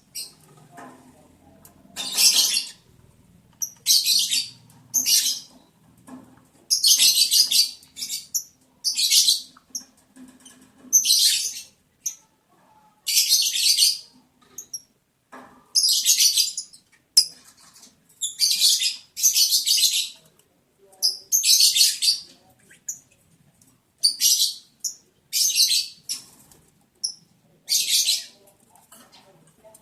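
Lovebirds chattering in repeated short bursts of shrill, rapid high-pitched chirps, one burst every second or two.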